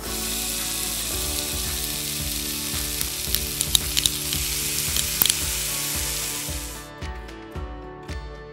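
Chopped garlic and chili sizzling in hot oil in a miniature steel wok as a tiny spatula stirs them, with a run of sharp pops and crackles midway. The sizzle fades out about seven seconds in.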